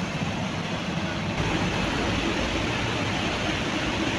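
Steady mechanical rumble of a running engine, with the low rumble growing louder abruptly about a second and a half in.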